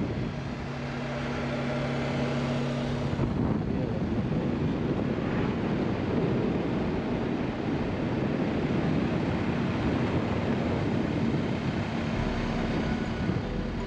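Motorcycle riding along the road: steady wind and road noise over the engine's hum, with the engine note changing about three seconds in.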